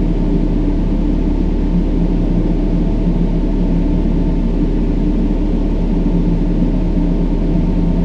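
Steady brown noise: a deep, even rushing sound that does not change, with a few faint low steady tones under it.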